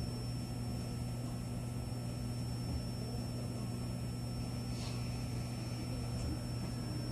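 Steady electrical hum inside a car of a Toei 10-300 series commuter train, low with a thin high-pitched whine over it and no rise in pitch. The train is standing just after its doors have closed.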